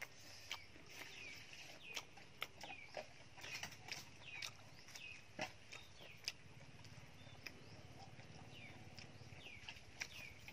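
Close-up eating sounds: wet mouth clicks and lip-smacking, several a second, as a man chews a pork-filled crepe with his mouth open.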